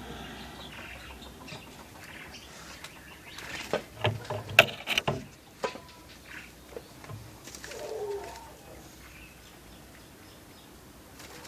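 A Yorkshire canary's short, scattered chirps and calls, not full song. Several sharp clicks and knocks come about four to five seconds in.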